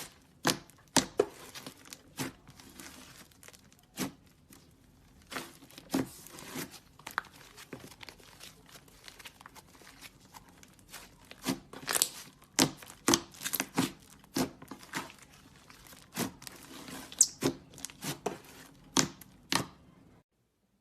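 Clay slime being handled and stretched: irregular sticky clicks and pops over a soft crackle, cutting off suddenly near the end.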